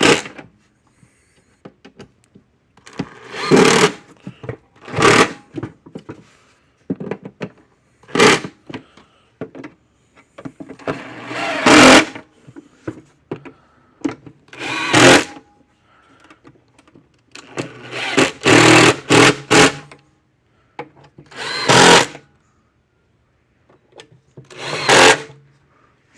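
Cordless drill driving screws into the fence charger's housing, in a series of short bursts, one per screw, with pauses between them.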